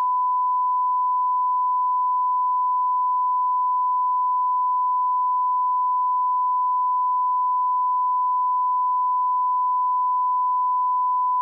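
Steady 1 kHz sine line-up tone at −18 dBFS, the reference level for aligning broadcast audio, held unbroken at one pitch and one level.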